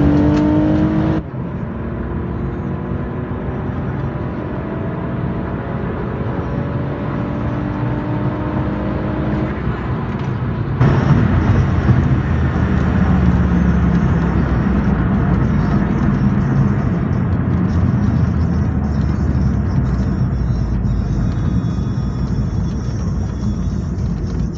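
Mitsubishi Eclipse 3.8-litre MIVEC V6 at full-throttle acceleration, heard from inside the cabin. The engine note climbs, drops suddenly at an upshift about a second in, then climbs again for about eight seconds before the throttle is lifted. The rest is the car slowing with steady engine, road and wind noise.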